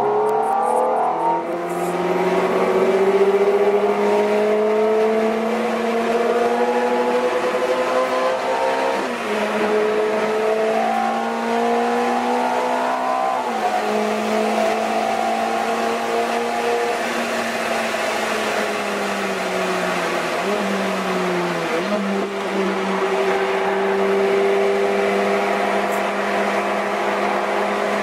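Ferrari F430's 4.3-litre V8 heard from inside the cabin, running hard at track speed. Its pitch slides up and down with throttle and gear changes, with a few quick jumps and a falling stretch past the middle.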